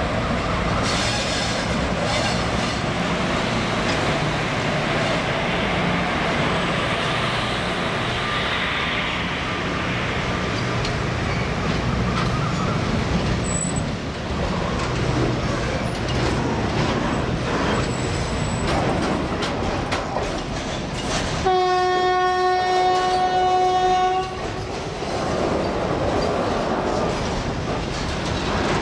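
A freight train of double-decker car-carrier wagons, hauled by WAG-5A electric locomotives, passes slowly. The locomotive hums low as it goes by, then the wagons rumble and clack over the rail joints. About two-thirds of the way through, a train horn sounds one steady note for nearly three seconds.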